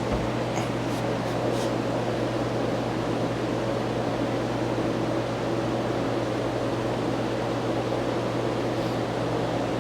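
A steady low mechanical hum with a few fainter overtones, unchanging throughout.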